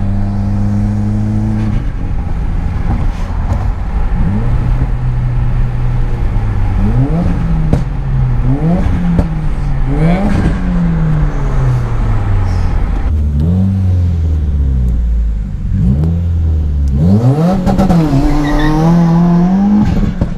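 Subaru WRX's turbocharged flat-four engine heard from inside the cabin. It holds steady at first, then revs up and drops back several times through quick gear changes. It eases off about two-thirds through and pulls up through the revs again near the end.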